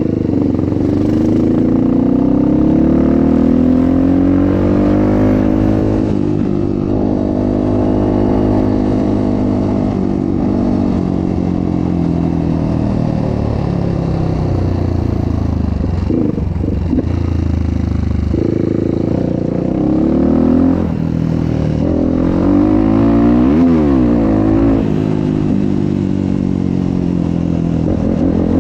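Motocross bike's engine under way on the road, its note rising and dropping again and again as it accelerates and shifts through the gears.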